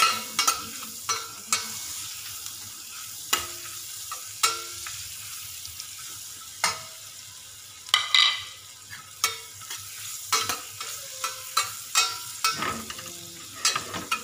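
Sliced onions frying in melted margarine in a stainless steel saucepan: a steady sizzling hiss, with a metal spoon clinking and scraping against the pan in sharp, irregular knocks as they are stirred.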